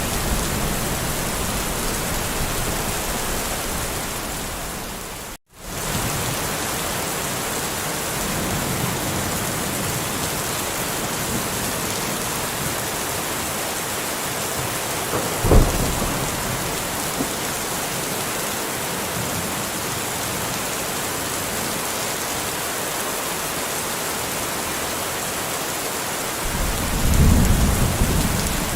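Steady rain falling, with thunder: a single sharp low clap about halfway through and a low rumble building near the end. The rain fades out and drops to silence for a moment about five seconds in, then comes straight back.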